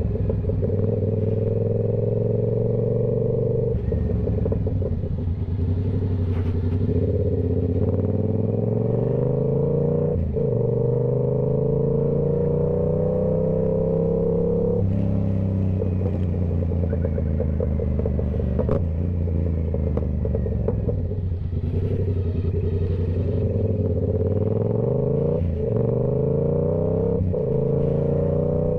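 Yamaha YZF-R7's 689 cc parallel-twin engine running through a TOCE full exhaust system under way, its pitch climbing as it pulls and dropping at each gear change several times.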